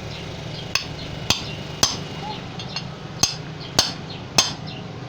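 Hammer blows driving a pipe insert into an engine's spark plug hole: six sharp metallic strikes in two groups of three, about half a second apart, over a steady low hum.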